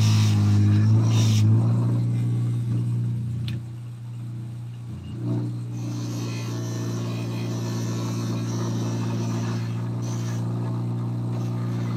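A steady machine hum from a running motor, easing off about four seconds in and picking up again a second later.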